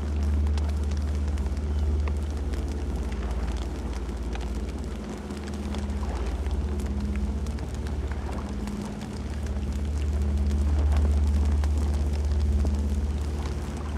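Campfire burning: a steady low rumble of flames that swells and eases, with scattered small crackles.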